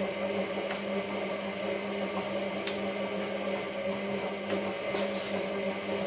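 Hotpoint 9534A washing machine's drum motor turning the drum in the wash phase: a steady hum with a few light ticks, cutting off suddenly at the very end as the drum stops.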